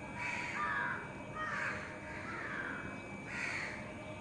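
A crow cawing over and over, about five or six harsh caws spread through a few seconds.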